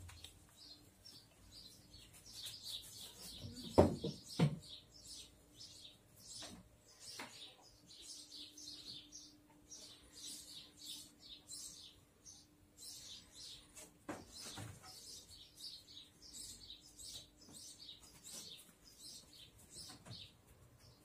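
Small birds chirping in quick, continuous short calls, with two loud dull thumps about four seconds in.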